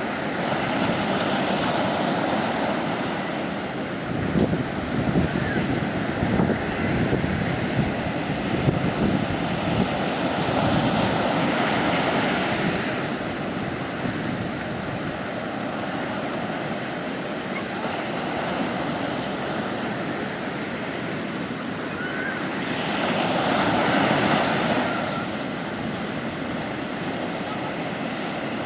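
Mediterranean sea waves breaking and washing up the beach, the surf swelling and falling back every several seconds, with gusts of wind rumbling on the microphone.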